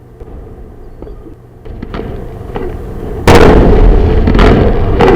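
Rocket explosion: a low rumble swells with scattered crackles, then a sudden loud blast about three seconds in gives way to a heavy, continuing rumble broken by sharp cracks.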